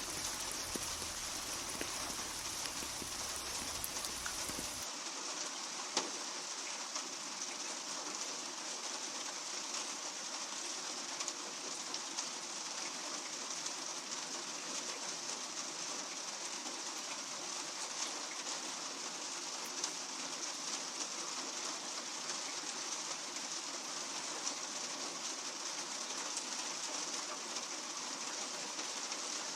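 Steady rain falling, an even hiss of many drops with an occasional sharper drop tick standing out.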